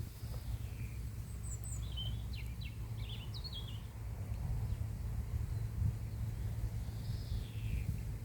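Wind rumbling low on the microphone, with birds calling: a quick run of short chirps a couple of seconds in, a brief high twitter, and a soft falling call near the end.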